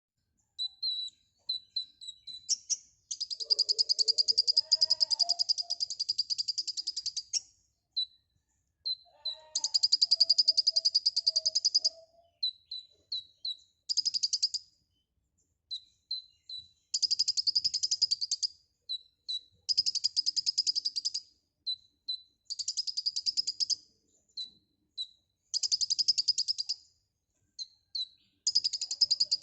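Kolibri ninja sunbird singing hard: short high chips alternating with long, very fast trills of one to four seconds, repeated over and over.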